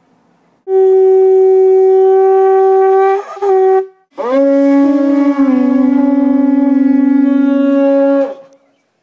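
Conch shell trumpet blown in two long, steady blasts, the second lower in pitch than the first, with a brief wobble near the end of the first blast.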